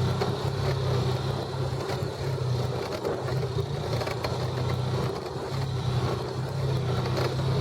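Vehicle engine running with a steady low drone, dipping briefly about two seconds in and again about five seconds in.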